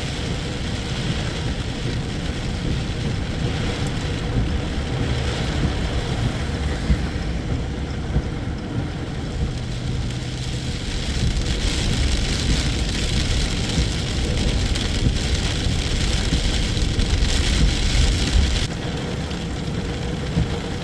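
Steady rain falling, with a long low rumble of thunder building in the middle that stops abruptly near the end.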